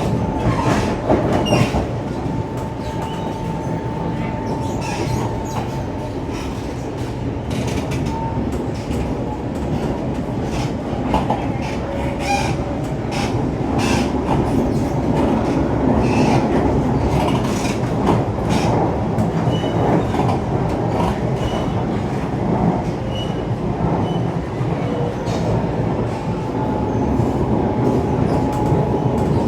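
Siemens C651 metro train running on rails: a steady rumble of wheels with frequent clicks over the track, some wheel squeal, and a thin high tone that comes and goes.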